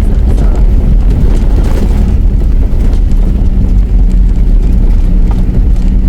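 Vehicle driving on a rough dirt track, heard from inside the cabin: a steady low engine and road rumble with scattered knocks and rattles.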